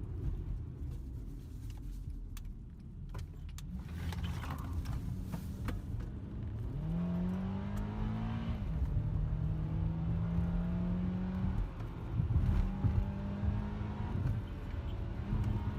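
Car driving on the road with a steady low road rumble. Around the middle an engine note rises in pitch, drops once, as at a gear change, then holds steady as the car keeps accelerating.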